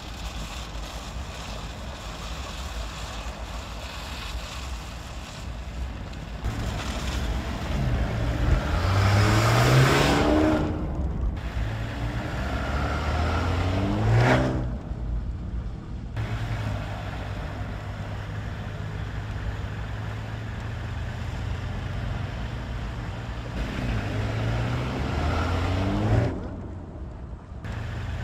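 Mercedes-AMG GLA35's turbocharged 2.0-litre four-cylinder engine accelerating hard three times, each time rising in pitch before cutting off, over a steady low drone of the car driving.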